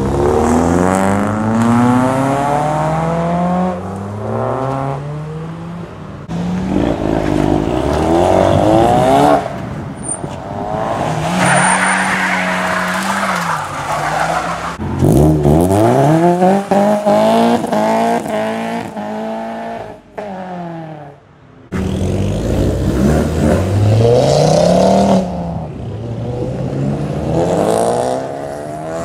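Hatchback cars in turn accelerating hard away, each engine rising in pitch, dropping at a gear change and rising again.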